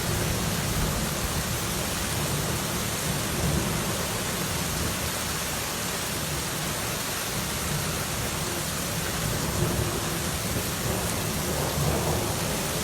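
Torrential rain pouring down steadily, with low rumbles of thunder rolling underneath.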